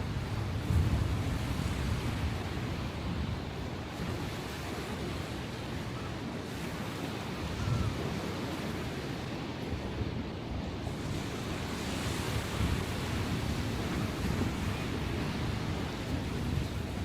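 Sea waves breaking and washing on the shore, rough after a typhoon, with wind buffeting the microphone. The low rumble rises and falls gently with the swells.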